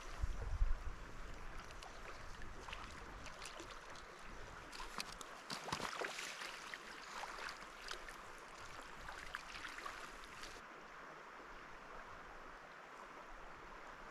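Mountain river water running and splashing, with many small sharp splashes over a steady rush, and a low thump about half a second in.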